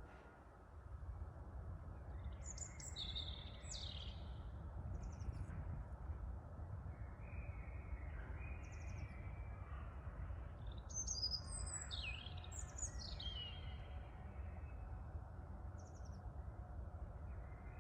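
Wind buffeting the microphone as a steady low rumble, with songbirds chirping in short bursts over it, busiest about three seconds in and again around eleven to thirteen seconds in.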